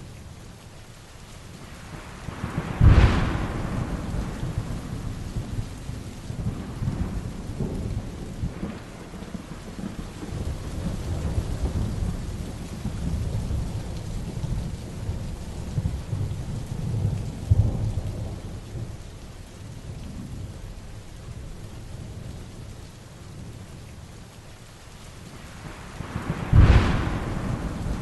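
Heavy rain falling steadily with thunder: a sharp thunderclap about three seconds in, followed by a long rolling rumble, and another sharp clap near the end.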